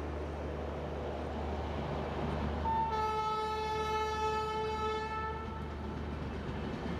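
Gatimaan Express coaches rushing past at speed with a steady low rumble. Partway through, a two-tone train horn sounds for about three seconds over it.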